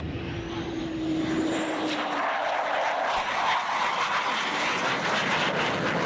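Military jet aircraft flying past at an airshow: a high whine rises over the first two seconds, then the engine noise swells into a loud, steady roar.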